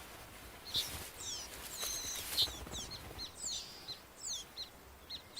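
Small songbirds chirping. Quick, high, repeated notes, many sliding downward, begin about a second in and come several a second.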